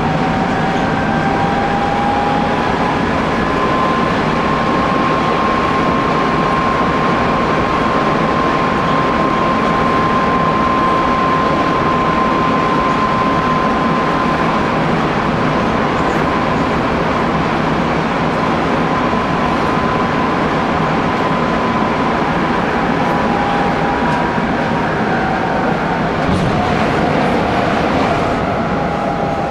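Hanshin Railway electric commuter train running between stations, heard from inside the front car: steady wheel-on-rail rumble with a motor whine that rises in pitch over the first few seconds, holds, and drops away near the end.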